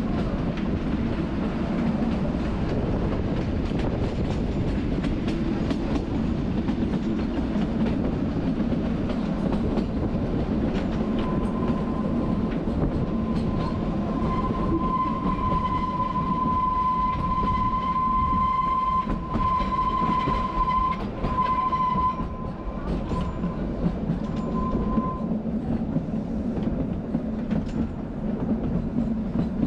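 Kalka–Shimla narrow-gauge toy train running, heard from on board: a steady rumble of wheels on track with light clicks. About eleven seconds in a high, steady squeal of the wheels comes in and holds for some fourteen seconds before fading.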